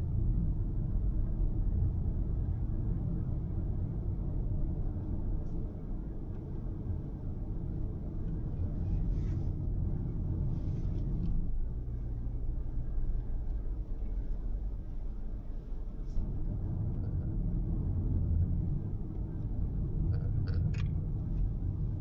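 Road and engine noise inside a moving car's cabin: a steady low rumble that eases briefly a couple of times.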